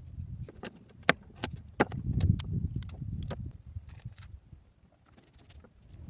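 A run of irregular sharp knocks and clicks over a low rumbling noise, the knocks thickest in the first half and the rumble loudest around two to three seconds in.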